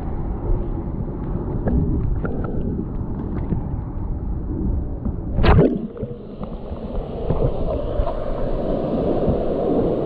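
Mountain stream water rushing and gurgling, with small clicks through it and one sharp knock about five and a half seconds in. After the knock the rushing turns steadier and fuller.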